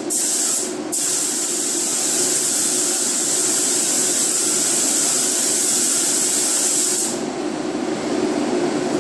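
Automotive paint spray gun hissing as paint is sprayed, with a short break as the trigger is let off about a second in, then a long steady pass that stops about seven seconds in. A steady low hum continues underneath and is left alone after the spraying stops.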